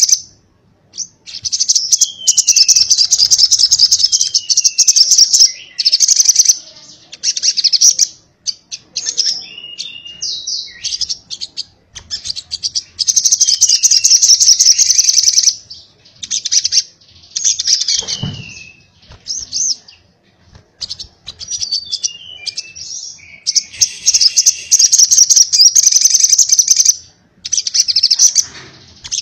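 Spiderhunter (sogok ontong) singing in repeated bursts of rapid, high-pitched chattering a few seconds long, with short falling whistled notes between them. This is the fast, crackling 'konslet' style of song. One dull thump comes a little past midway.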